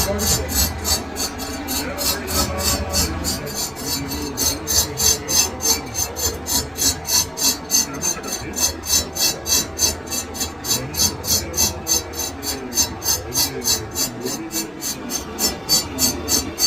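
Hand file rasping on metal in steady back-and-forth strokes, about three a second. A low hum sits underneath for the first few seconds.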